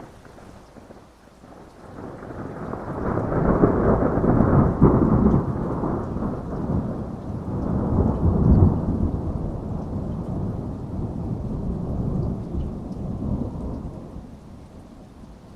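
A long rolling thunderclap over steady rain. The rumble builds from about two seconds in, peaks twice, around four to five seconds and again near eight and a half, then dies away near the end.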